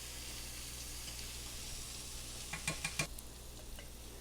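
Chicken and sun-dried tomatoes frying in oil in a skillet, a steady sizzle, with three short clicks about two and a half seconds in.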